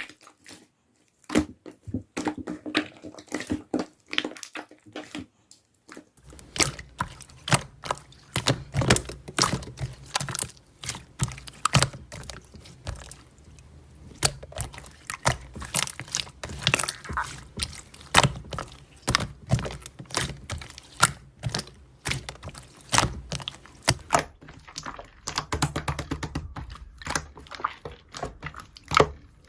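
Slime being squeezed, poked and stretched by hand, giving a dense, irregular run of sharp sticky clicks and pops.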